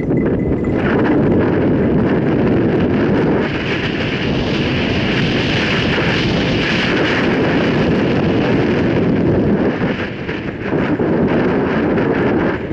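Wind rushing over the microphone of a mountain bike on the move, with the tyres rolling over a dirt trail and frequent small knocks and rattles from the bike.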